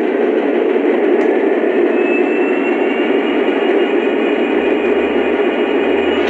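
Lionel model coal train with its SD70MAC locomotive running on the track: a steady rolling rumble of wheels and motor, with a faint whine slowly rising in pitch from about a second and a half in.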